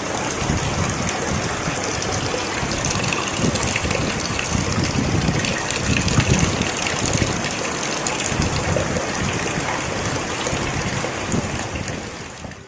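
Heavy rain pouring down, a steady dense rush of water that cuts off suddenly at the end.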